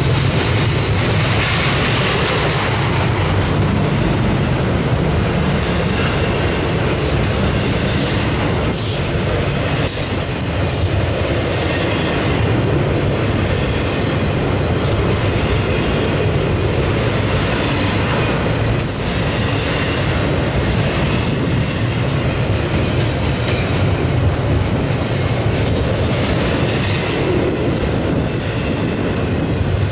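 Double-stack intermodal train's loaded well cars rolling past close by: steady, loud noise of steel wheels on rail, with brief high-pitched sounds from the wheels now and then.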